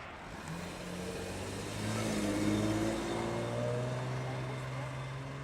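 A car engine accelerating past: the engine note rises, is loudest around two seconds in, then holds a steadier pitch.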